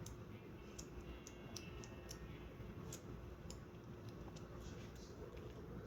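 Faint, irregular clicking and smacking of a kitten suckling at a feeding-bottle nipple.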